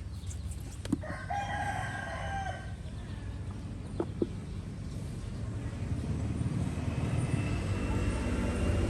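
A rooster crows once, a single held call of about a second, over a steady low rumble. Two short clicks follow a couple of seconds later.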